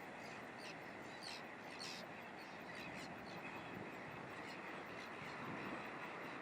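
White-fronted terns calling in a nesting colony: a few short, high, harsh calls, the loudest two a little over a second in and just before two seconds, over a steady rushing background.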